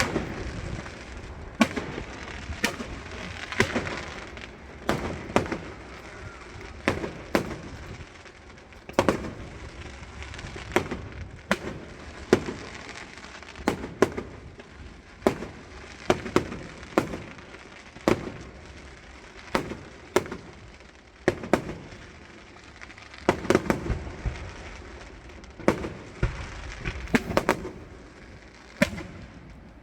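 Fireworks display: aerial shells going off one after another, one or two bangs a second with a few quick clusters, over continuous crackling.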